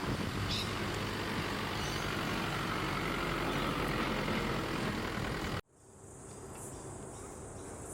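Steady rumble of a heavy vehicle's engine running, which cuts off abruptly about two-thirds of the way through, leaving a quieter scene with a steady high-pitched buzz.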